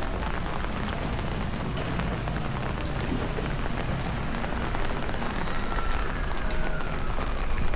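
Steady rain on street surfaces: an even hiss with many small spattering drops.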